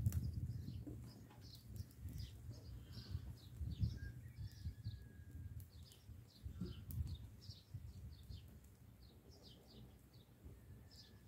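Small birds chirping, many short high calls one after another, over a steady low rumble, with a few sharp clicks or knocks.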